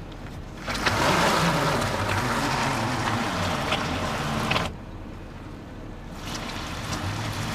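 A car stuck in a ditch revving in reverse with its drive wheels spinning without grip. There is a loud stretch of revving and wheel-spin noise from about one second in until past four seconds. The engine then drops back toward idle and revs up again, less hard, near the end.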